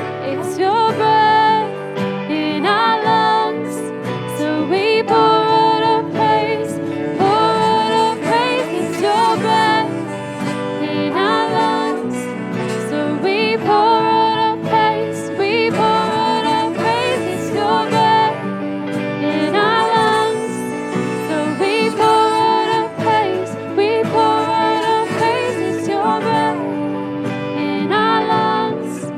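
Church worship band playing instrumental music: a melody line moving over steady held chords, with no words sung.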